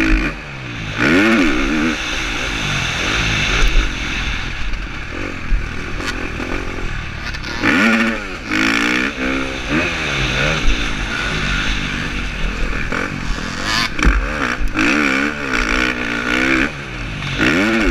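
KTM 350 SX-F four-stroke single-cylinder motocross engine revving hard and backing off again and again, its pitch rising and falling as the rider races, with wind buffeting a helmet-mounted camera. Sharp clatter and knocks from the bike over the track are mixed in.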